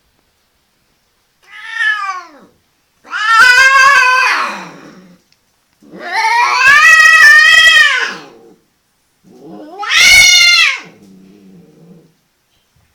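Domestic cat caterwauling during mating: four long, loud yowls, each wavering in pitch and sliding down at the end, the last trailing off into a low, rough growl.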